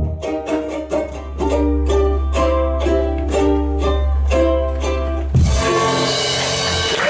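Live band playing the instrumental close of a song: rhythmic strummed chords, ukulele-like, over a steady bass, ending on a final chord about five and a half seconds in. Audience applause breaks out right after.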